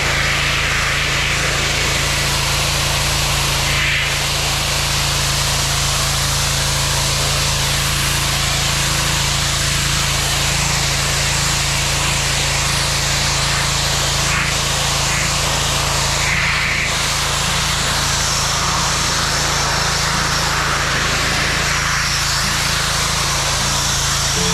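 A machine running steadily: constant hiss with a low hum underneath, unchanging throughout.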